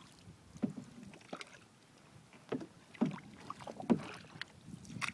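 Canoe paddle strokes: paddles dipping and pulling through the water, giving sharp, irregular splashes and knocks about once a second, with some strokes close together.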